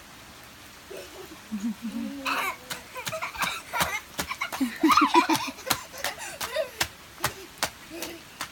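People laughing, with a run of quick laughs about five seconds in as the loudest part. Scattered sharp taps sound throughout.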